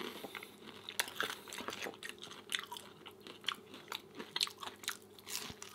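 A person chewing and biting food close to the microphone, with irregular small crunchy clicks and wet mouth sounds.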